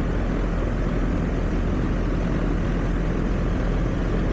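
Outdoor R-410A air-conditioning or heat-pump condenser unit running, its fan and compressor making a loud steady whir over a low hum. The technician finds the system low on refrigerant.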